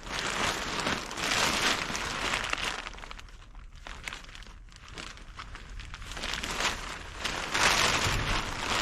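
Crinkling and rustling of something being handled, in two spells: one over the first three seconds and another from about six seconds in, with quieter rustling between.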